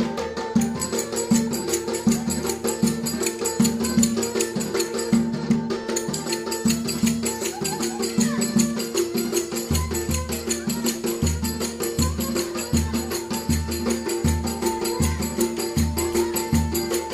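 Live Turkish folk dance music: a melody instrument over a steady drum rhythm, with deep bass drum strokes joining about ten seconds in.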